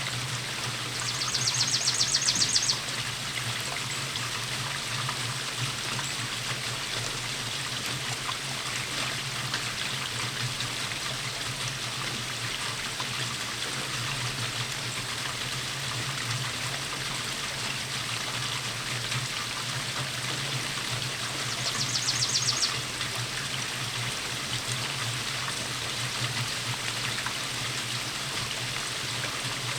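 Steady rainfall with water trickling and running. Twice, a short high rapid trill rises above the rain: once about two seconds in, and again for about a second near two-thirds of the way through.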